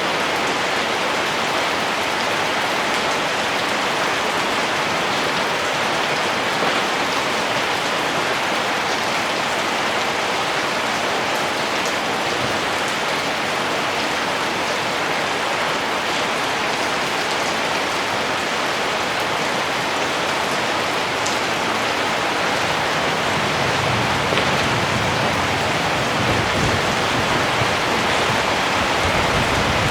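Steady rain falling, an even patter of many drops. A low rumble joins in near the end.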